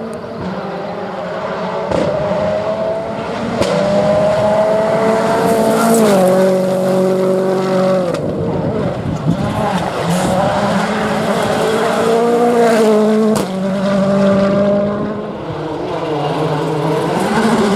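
World Rally Car's turbocharged 1.6-litre four-cylinder engine running hard on a gravel stage, its note climbing and then dropping in steps as it shifts gear, with a few sharp cracks along the way.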